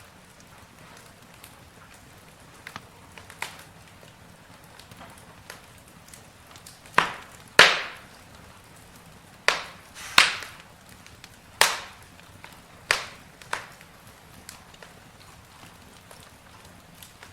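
Wood fire crackling: irregular sharp pops and snaps over a faint steady hiss, with a cluster of louder pops in the middle.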